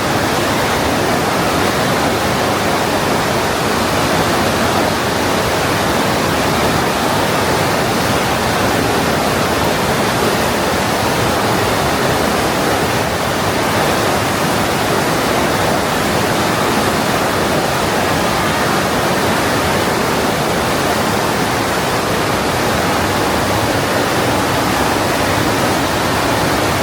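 Steady, loud rush of the Partnach, a mountain river tearing through a narrow limestone gorge.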